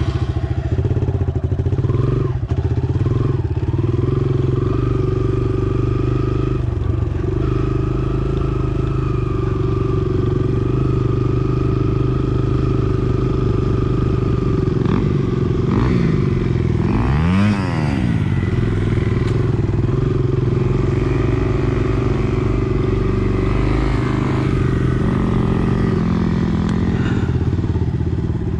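Dirt bike engine running under way around a motocross track, holding a fairly steady pitch. About seventeen seconds in, the pitch dips and then climbs again as the throttle is eased off and reopened.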